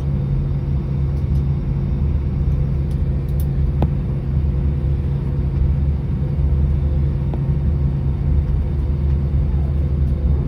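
Airbus A319 cabin noise before takeoff: a steady low rumble of the jet engines and airframe with a constant hum. A single light click about four seconds in.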